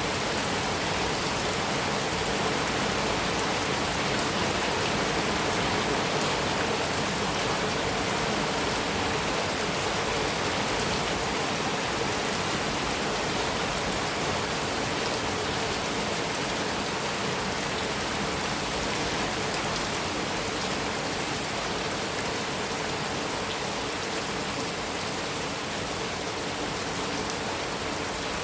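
Heavy rain falling steadily on a metal roof, a dense even hiss of drops with no thunder.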